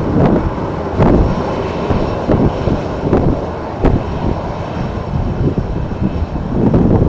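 Jet airliner engines running as a steady rush of noise, with strong wind buffeting the microphone in irregular low thumps about once a second.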